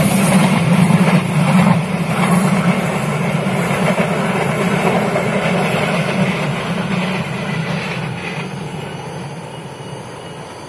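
Passenger train coaches rolling past on a curving track: a steady low rumble that fades over the last few seconds as the end of the train moves away.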